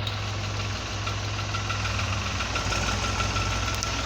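Mahindra tractor's diesel engine running steadily, with a faint, steady high whine over it.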